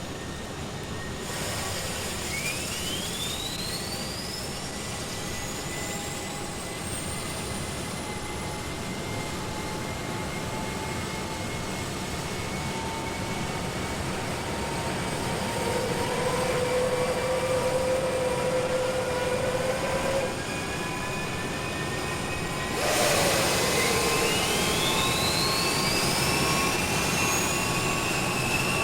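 Vehicle noise from a sound-effects record: a steady roar that grows louder, with sudden jumps about a second in and again about 23 seconds in, each followed by a high whine rising in pitch.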